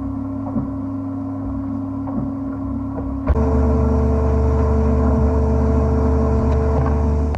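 Wet abrasive blasting machine running with a steady motor hum; about three seconds in it gets suddenly louder, with a new steady tone and a spreading hiss, as the blasting is switched on.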